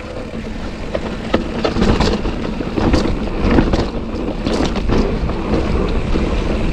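Mountain bike descending a steep, rocky trail: wind rushing over the camera microphone, with the tyres crunching over dirt and rocks and the bike rattling and clacking over bumps.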